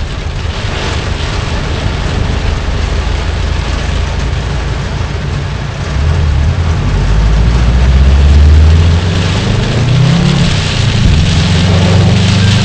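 Car driving through heavy rain: a steady hiss of rain and wet tyres on the flooded road, with a low engine hum that gets louder about halfway through.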